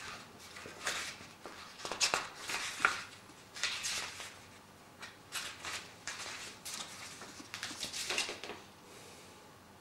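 Paper pages of a motherboard manual being leafed through, a string of short rustling swishes about a second apart.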